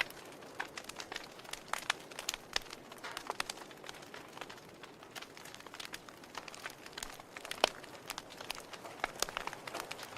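Wood fire crackling in a fireplace: irregular sharp pops and snaps from the burning logs over a soft steady hiss, with one louder pop about three-quarters of the way in.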